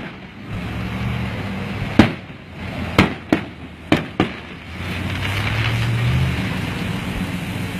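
Aerial fireworks bursting: five sharp bangs between about two and four and a half seconds in, over a steady traffic hum. In the second half a pickup truck drives past close by, its engine rumble swelling and then fading.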